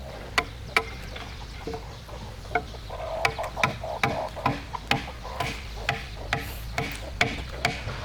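Repeated sharp knocks of a tool striking wood: two near the start, then a steady run of about two to three blows a second from a couple of seconds in, over a low steady hum.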